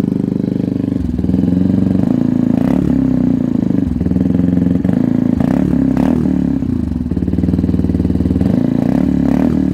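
Benelli TNT 125 single-cylinder engine running through a decatted Werx straight-pipe exhaust, loud. It idles and is revved in several short throttle blips, each rising and falling in pitch.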